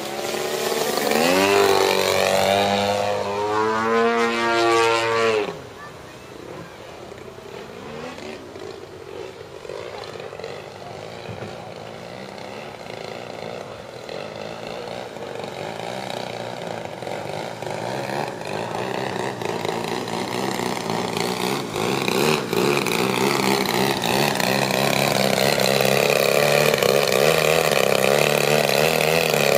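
Petrol engine of a large-scale RC aerobatic plane (120cc gas engine) in flight: loud with its pitch sweeping up and down for the first five seconds or so, then dropping away suddenly and growing gradually louder again, its pitch wavering.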